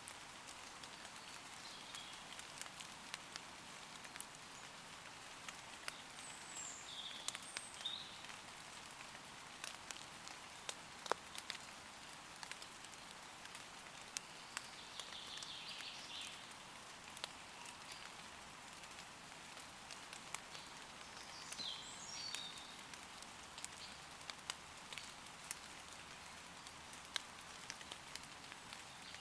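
Steady light rain falling on leaves, with many sharp individual drip ticks. A few short, high bird chirps come and go over it, about three separate times.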